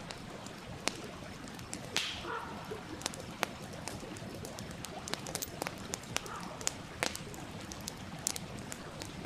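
Wood campfire crackling, with frequent sharp pops at irregular intervals, over the steady rush of a stream. A louder pop with a brief hiss about two seconds in.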